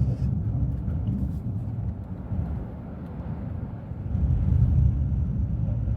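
Low, uneven rumble of a car on the move, which swells for a moment about four seconds in and then cuts off abruptly.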